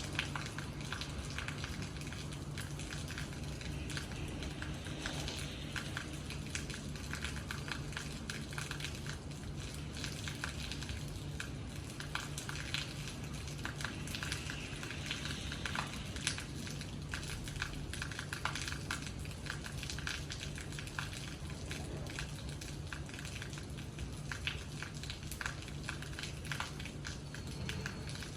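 Steady rain falling, a dense patter of many small drop ticks, with a steady low hum underneath.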